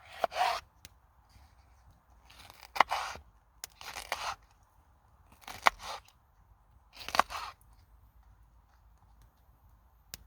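A run of about five short, crisp crunching strokes, each under half a second, coming one to two seconds apart, with a single sharp click near the end.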